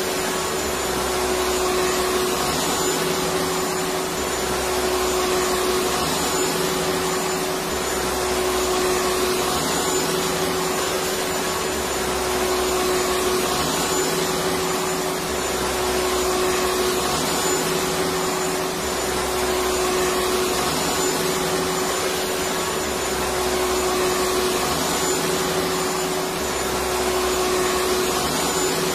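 Electric vacuum cleaner running steadily: a continuous whooshing noise with a steady hum, and a low rumble underneath that comes and goes every few seconds.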